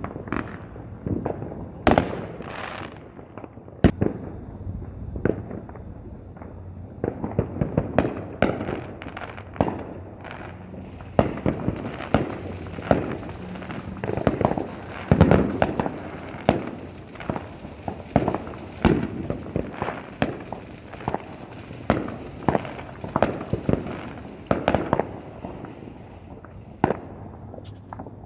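Fireworks going off: many sharp bangs at irregular intervals with crackling between them. They come a few at a time at first, then in a dense, rapid run through the middle, the loudest cluster about halfway through.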